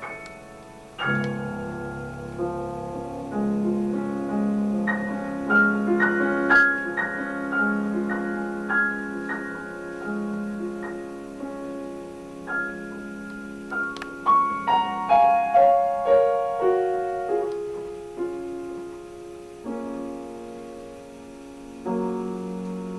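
Piano music: a slow melody over held chords, each note struck and fading, with a run of notes stepping downward about fifteen seconds in.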